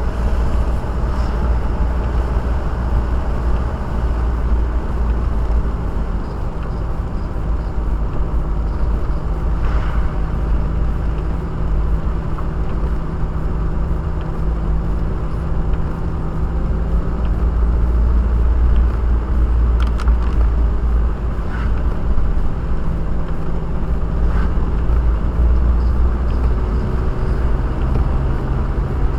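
Steady low rumble of a car driving, engine and road noise heard from inside the cabin through a dashcam's microphone, with a few faint clicks.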